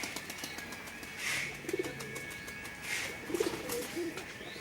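Domestic pigeons cooing: several short, low coos, typical of a cock pigeon driving its hen.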